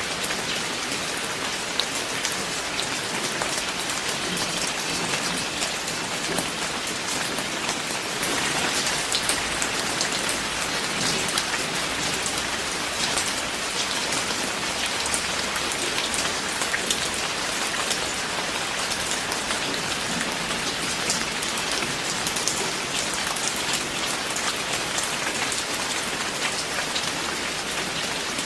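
Steady rain falling, with many individual drops ticking sharply through the hiss. It grows a little heavier about eight seconds in.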